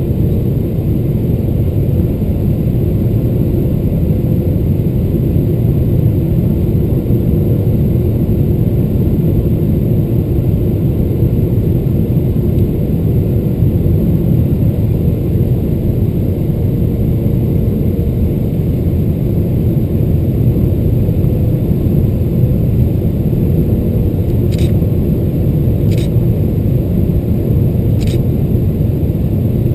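Steady low cabin rumble inside a Boeing 777-300ER airliner, engines and airflow. A few faint clicks come near the end, about every second and a half.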